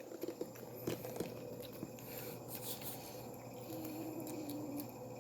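Cat eating broth-based cat soup from a bowl: soft, irregular wet lapping and chewing clicks.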